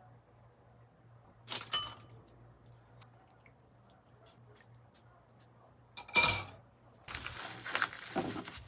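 Glassware or dishes clinking on a hard surface: a knock with a short ring about two seconds in, a louder one about six seconds in, then a run of clattering near the end.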